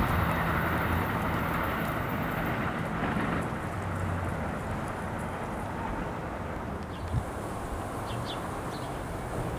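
Low rumble of a departing train fading slowly into the distance, with wind noise on the microphone.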